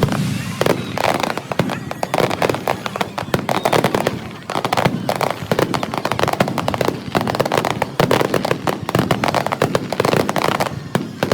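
Fireworks going off in a dense, continuous barrage of rapid sharp cracks and bangs, several a second.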